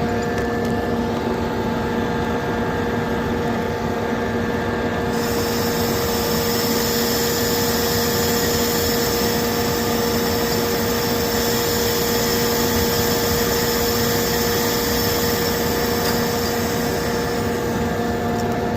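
Hydraulic knuckleboom log loader running, its pump giving a steady whine over the engine. A higher hiss comes in about five seconds in and stops near the end.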